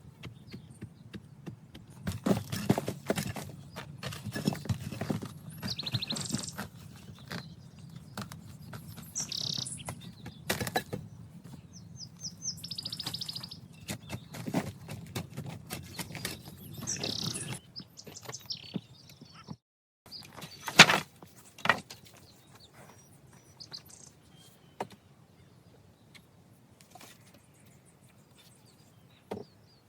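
Small birds chirping now and then over a run of knocks and thuds from hand work. One sharper knock about two-thirds of the way through is the loudest sound, and after it the knocking dies down.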